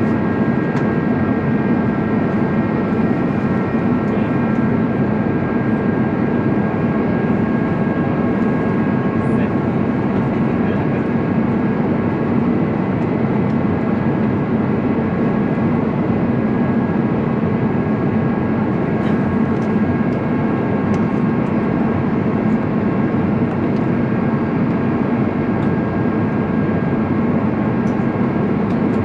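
Steady cabin drone of an Airbus A350-900's Rolls-Royce Trent XWB engines at reduced thrust after takeoff, with several steady high whining fan tones over a low rumble.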